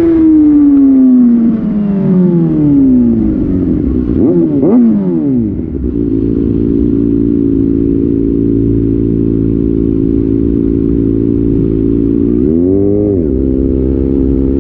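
Kawasaki Ninja ZX6R inline-four through an Austin Racing slip-on exhaust, revs falling steadily as the bike slows, then a couple of quick revs up and down. It settles into a steady idle, with one short throttle blip near the end.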